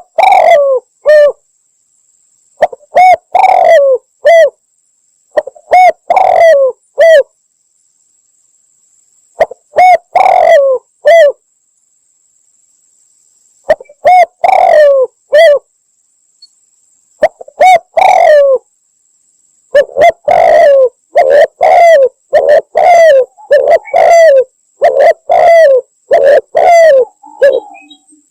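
Spotted dove (tekukur) cooing: repeated phrases of three or four notes, each note sliding down in pitch, played as a lure call. The phrases come with pauses at first, then follow almost back to back in the second half.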